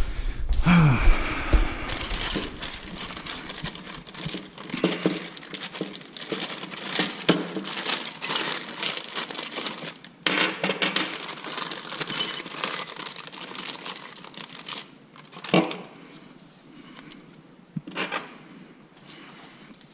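Metal tools and exhaust hardware clicking and clinking in quick succession, with a faint high ringing from about two to ten seconds in; the clatter thins to a few separate knocks after about fifteen seconds.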